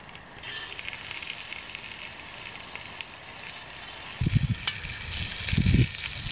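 Food sizzling and crackling as it fries in a cast-iron camp oven over a campfire. From about four seconds in the sizzle grows brighter, with a few low bumps.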